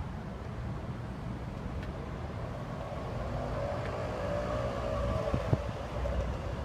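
Ducati Monster 796's air-cooled twin running through a Termignoni exhaust, a steady low rumble, with the engine note rising and falling once around the middle.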